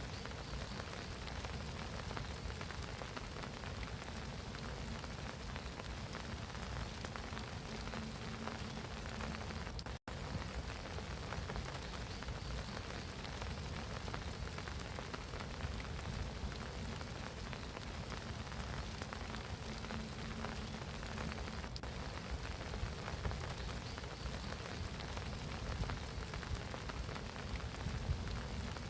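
Steady spring rain falling on a pond, a dense, even patter of drops on the water. The sound cuts out for an instant about ten seconds in.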